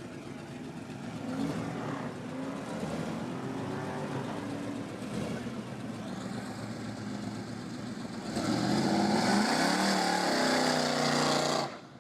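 LS V8 in a Camaro Z28 blipping and revving, then about eight seconds in going to full throttle with a rising engine note and a loud hiss of spinning tires in a short burnout. Both cut off suddenly near the end.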